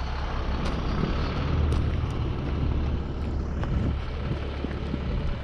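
Diesel engine of a GMC C8500 tandem dump truck running, a steady low rumble with a few light clicks.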